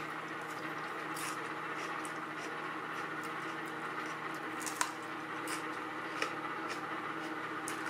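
Chewing a raw mini sweet pepper: soft, irregular crunches and squishes of crisp, wet pepper flesh in the mouth.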